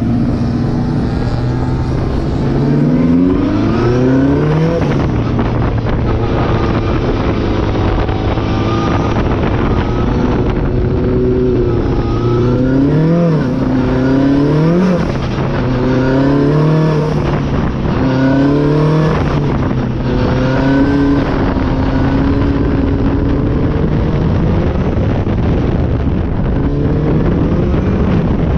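A Toyota Starlet's engine is heard up close from outside the car, over wind rush. Its pitch climbs and falls again and again as the car accelerates and lifts off the throttle.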